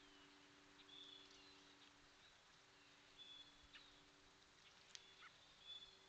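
Faint bird chirps, three short high notes about two seconds apart with a few soft clicks, over a steady low hum.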